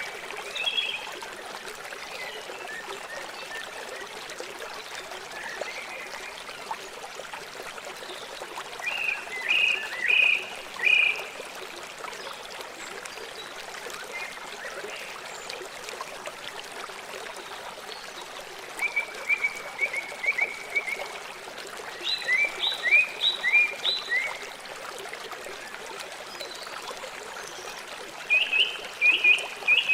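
A stream running and trickling steadily. Over it come several short runs of quick, high chirping calls, about four or five notes a second, heard near the start, around a third of the way in, twice past the middle and again at the end.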